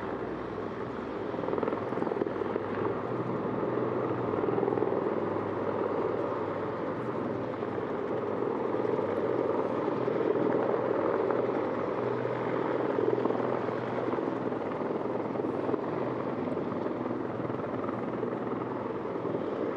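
Rotor and engine noise of a V-22 Osprey tiltrotor in helicopter mode, its rotors vertical, coming in to land. It is a steady rumble with a low throb that gets louder about two seconds in and stays up.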